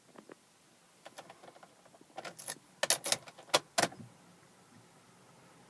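Car keys jangling, with a run of sharp clicks and rattles that is loudest about three to four seconds in.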